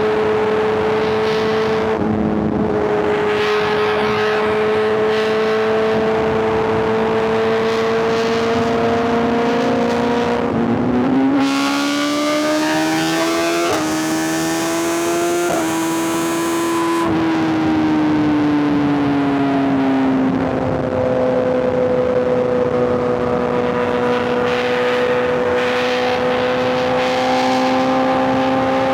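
Sport bike's inline-four engine cruising at a steady note, then accelerating through the middle with the pitch climbing in steps and a loud hiss over it, before easing off and settling back to a steady cruise.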